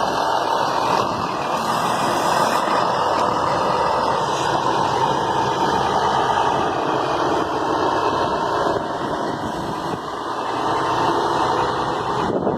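Scania K340 coach under way: steady engine and road noise, easing a little and then building again.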